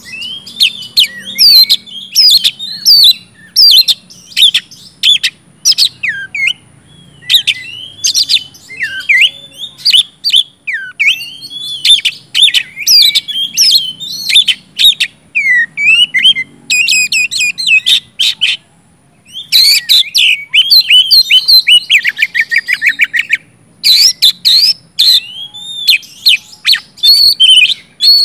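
Oriental magpie-robin singing continuously: a rapid, varied run of loud whistles, chirps and trills, broken by a brief pause about two-thirds of the way through and followed by a buzzy rattling phrase.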